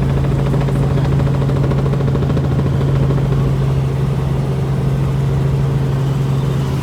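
Helicopter in flight heard from inside the cabin: a steady loud drone of engine and rotors with a constant low hum.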